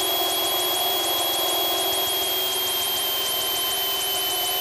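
Piper Tomahawk's four-cylinder Lycoming engine and propeller running steadily in cruise, heard inside the cockpit. A thin, steady high whine sits over the engine noise.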